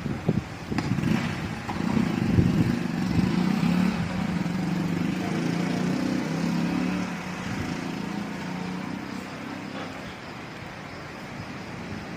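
A motor vehicle's engine running as it passes, loudest a couple of seconds in and fading away in the second half, with wind buffeting the microphone at the start.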